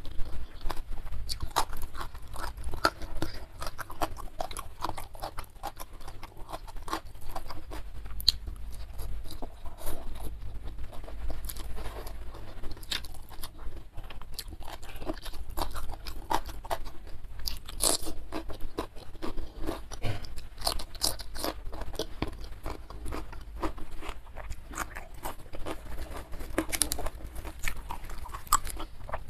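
Close-miked chewing and crunching of food, mukbang style: a continuous run of small irregular crackles, clicks and mouth noises as a person eats.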